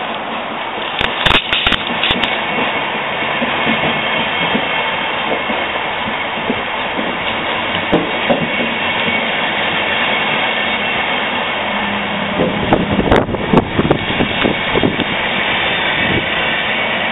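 Intercity passenger coaches rolling past along the platform: a steady rush of wheels on rails, with bunches of sharp clacks about a second in and again around thirteen seconds in.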